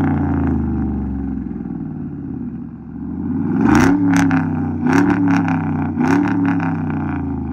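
Chevrolet Tahoe's V8 settling from a rev to a steady idle, then revved in three quick blips from about three and a half seconds in before dropping back toward idle.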